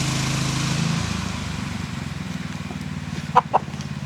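Four-wheeler (ATV) engine running steadily, its pitch dropping a little about a second in as it slows. Two short chicken clucks near the end.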